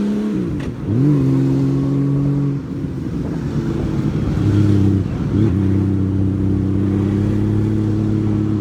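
Honda Valkyrie motorcycle's flat-six engine under way. Its pitch drops sharply just after the start and again about five seconds in, rising again each time as the throttle is reopened, then holds steady near the end.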